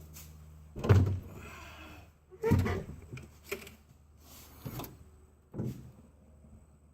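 Three heavy thumps, about a second in, at two and a half seconds, and near the end, with a rough scraping after the first and a few lighter knocks between: objects being handled and set down.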